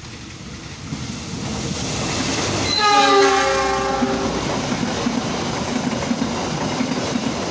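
Parahyangan passenger train's diesel locomotive approaching and passing, its rumble growing louder. About three seconds in the horn gives a single blast of a little over a second. The stainless-steel coaches then roll steadily past with a rumble and wheel rattle.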